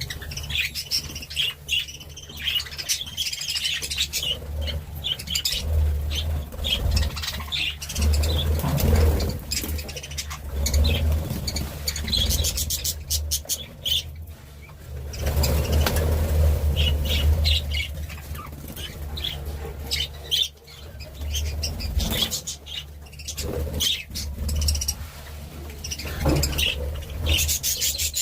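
Birds chirping and tweeting repeatedly, with frequent short flutters and clicks, over a steady low rumble.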